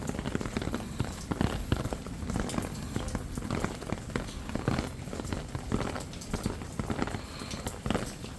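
Dense, irregular patter of small taps and clicks.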